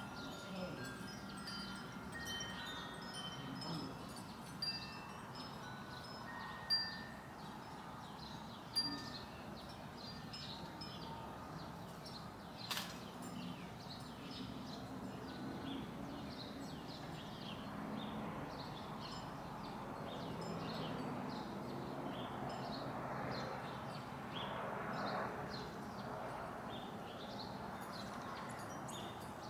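Wind chimes ringing in scattered, overlapping tones, with a few louder strikes and one sharp click partway through.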